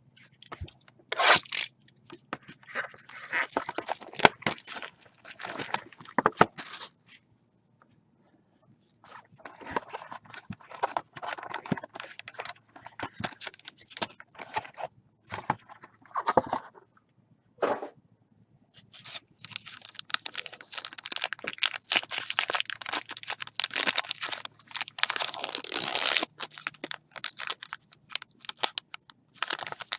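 Packaging on a box of 2014 Topps Tier One baseball cards being torn open and crinkled by hand, in irregular scratchy bursts with a pause of about two seconds about a quarter of the way in.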